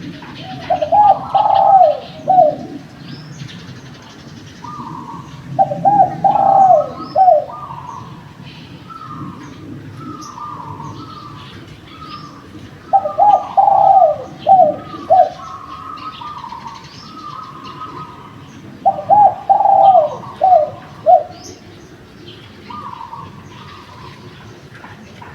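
Spotted doves (derkuku) cooing. There are four loud phrases of several short coos each: about one second in, about six seconds in, around thirteen seconds and around nineteen seconds. Between them come quieter coos from other doves and faint small-bird chirps.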